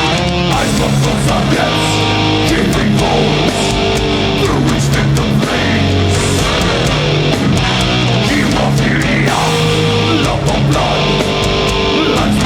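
Live heavy metal band playing: distorted electric guitars, bass and drums, loud and steady.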